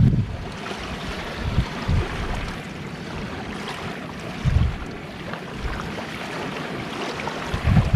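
Sea waves washing on a shore, with wind buffeting the microphone in short low gusts, the strongest about four and a half seconds in and near the end.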